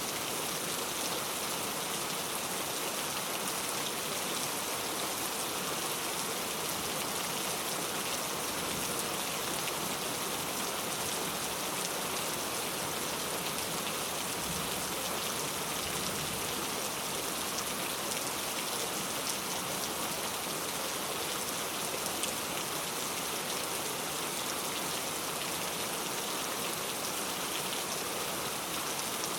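Steady rain falling, an even hiss of many drops with faint fine patter and no break or change.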